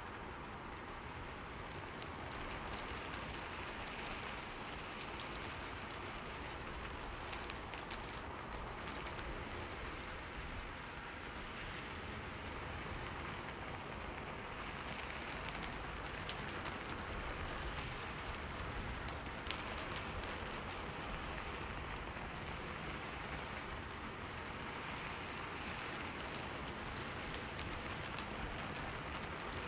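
Steady rain falling on forest leaves, a dense even hiss with many individual drops ticking through it.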